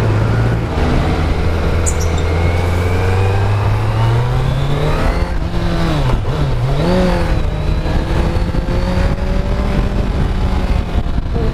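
Kawasaki Z900's stock inline-four engine under acceleration, its revs climbing steadily, dipping sharply twice about halfway through, then climbing again, over a rush of riding wind on the microphone.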